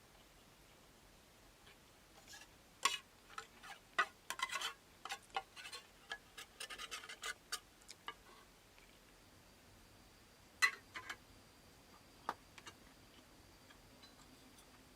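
Irregular small clicks, taps and rubbing, bunched together in the first half, then a few sharp clicks near the end.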